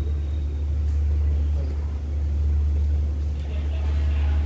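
Steady low rumble of a passenger train moving slowly away from the platform, heard from inside the carriage.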